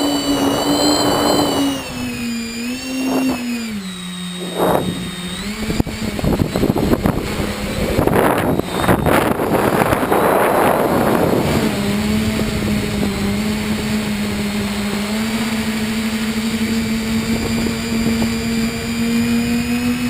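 Tricopter's electric motors and propellers buzzing in flight, the pitch dipping and rising with throttle changes over the first few seconds and then holding steady. A stretch of rushing noise swells in the middle.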